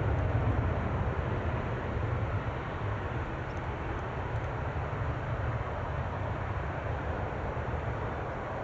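Jet airliner's engines rumbling, slowly fading as the aircraft moves away.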